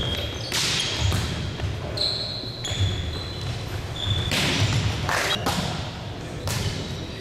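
Indoor court game in a large echoing hall: a ball being hit and bouncing several times, with short high squeaks and players' voices calling out.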